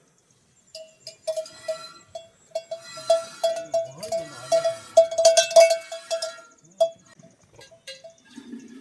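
A metal livestock bell clanking irregularly as it swings, ringing many times in quick, uneven succession, busiest in the middle and thinning out to a few strokes near the end.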